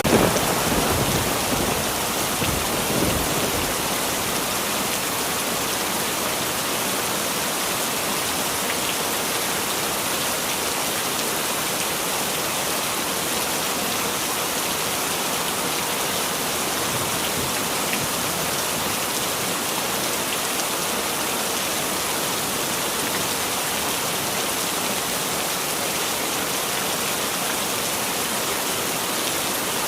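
Heavy rain falling steadily as an even hiss. In the first few seconds the tail of a thunderclap rumbles and fades away.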